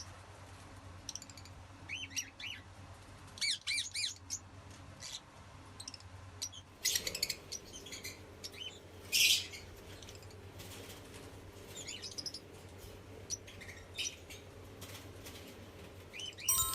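Albino and lutino parrots chirping and squawking in short, scattered calls, with a louder squawk about halfway through, over a steady low hum.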